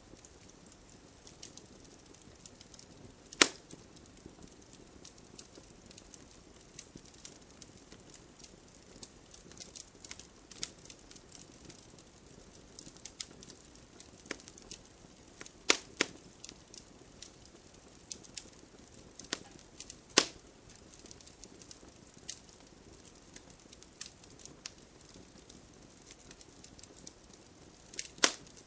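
Wood fire crackling in a fireplace: a steady soft hiss with scattered small crackles and an occasional loud sharp pop, four or five of them.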